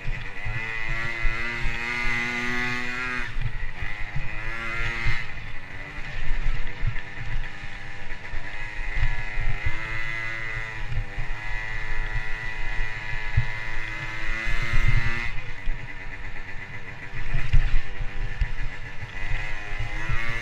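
A motocross bike's engine is ridden hard, its pitch climbing and then dropping back sharply several times as the throttle is opened and closed through the gears. Under it runs a heavy, uneven low rumble.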